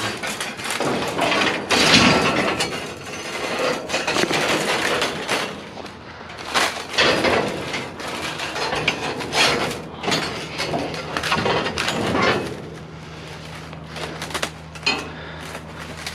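Irregular clattering and knocking of scrap metal being pulled out and handled in a dumpster, over a rough rushing noise. A steady low hum sets in near the end.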